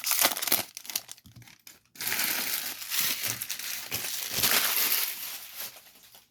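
Wrappers of Topps Series 2 baseball card packs crinkling as the packs are ripped open and handled: quick crackles for about two seconds, then continuous crinkling that fades out near the end.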